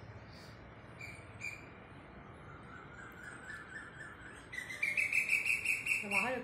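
Small birds chirping: a few short calls, then a loud, rapid run of high chirps in the last second and a half.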